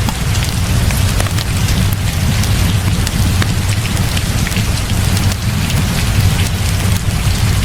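Heavy rain falling steadily over a deep, continuous low rumble, with a log fire crackling in short, scattered pops.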